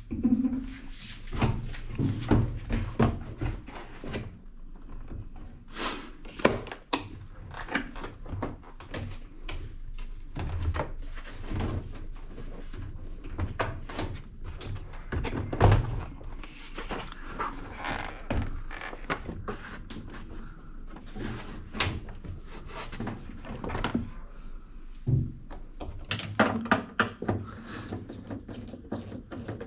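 Irregular knocks, clicks and clatter of a wrench and metal and plastic parts being handled while a top-loading washing machine is taken apart, its inner-tub nut and tub covers being removed.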